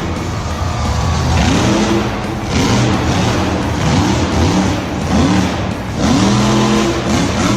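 Engine revving up and down over and over, its pitch sweeping up and falling back many times in quick succession over a loud rushing noise.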